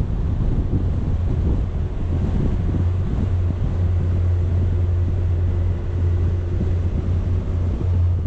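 Wind buffeting a moving action camera's microphone, over a steady low engine drone from the vehicle it rides on.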